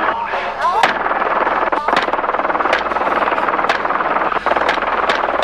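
Gunshots fired one at a time from a helicopter, about one a second, over the steady noise of the helicopter's engine and rotor.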